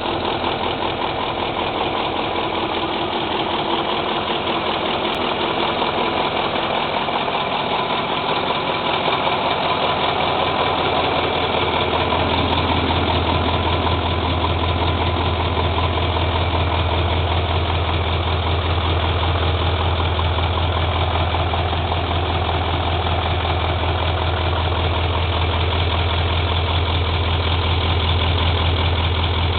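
YaMZ-7511 V8 turbodiesel of a MAZ-54328 truck idling steadily, with an even beat of firing pulses. Its low rumble grows stronger about twelve seconds in.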